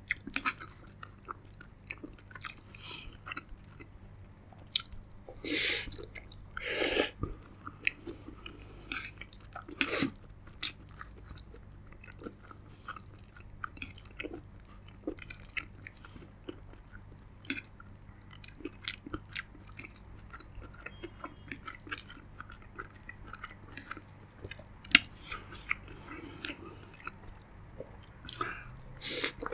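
Close-miked chewing of soft spaghetti noodles and meatball, with many small wet clicks and lip smacks. Two louder, drawn-out sounds come about six and seven seconds in.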